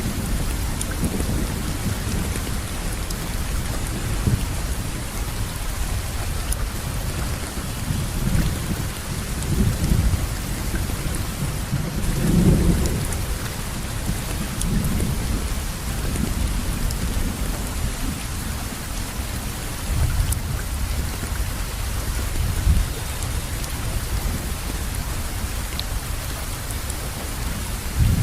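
Steady rain falling, an even hiss across all pitches. Under it, low rumbles swell and fade throughout, the strongest about twelve seconds in.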